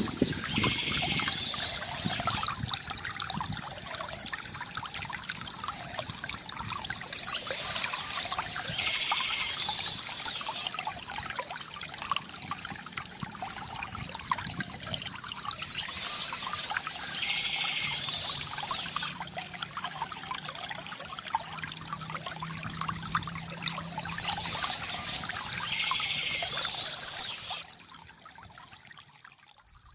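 Small stream trickling and splashing over stones in a steady flow, with the sound swelling a little every few seconds and dipping shortly before the end.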